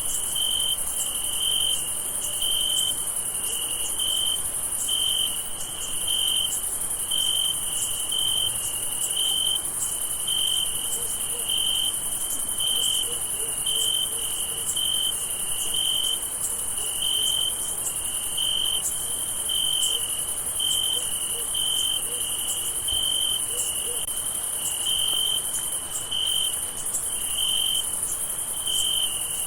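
Night chorus of crickets: a steady high-pitched trill, with a lower chirp repeating in an even rhythm of about one and a half a second.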